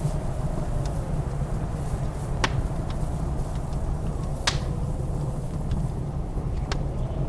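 Blizzard wind blowing steadily with a deep rumble and a faint wavering whistle, while a wood fire in a fireplace gives off a few sharp crackles and pops, the loudest about two and a half and four and a half seconds in.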